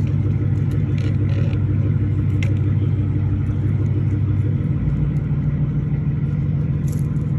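A steady low mechanical hum, like an engine running, that shifts slightly about four and a half seconds in, with a few faint clicks over it.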